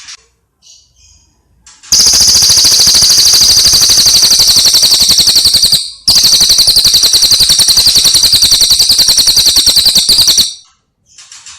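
Recorded bird song: a few soft chirps, then a loud, very fast, high-pitched trill lasting about four seconds, a brief break, and a second trill of about four seconds, followed by soft chirps again.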